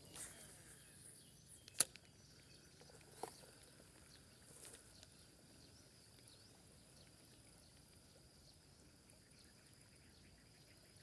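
Quiet rural ambience with a faint steady high insect drone. A single sharp click comes about two seconds in and a softer one a second or so later.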